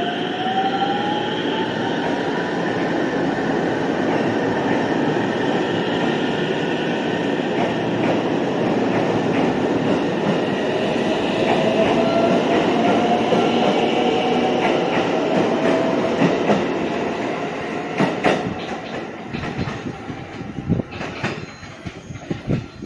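Electric train pulling out of a station: the traction motors whine, rising in pitch as it accelerates, over the steady rumble of the cars. Near the end the noise falls away and the wheels click over the rail joints as the last cars pass.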